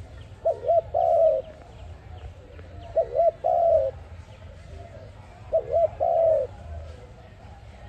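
A dove cooing three times, about two and a half seconds apart. Each call is two short notes followed by a longer one.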